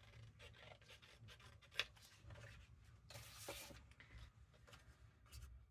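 Faint rustling and handling of paper craft pieces, with small scattered clicks, a sharp click a little under two seconds in, and a brief louder rustle about three seconds in.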